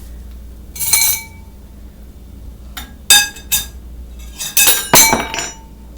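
Dishes clinking together: a clink about a second in, two more around three seconds, then a quick run of clinks near five seconds, each ringing briefly.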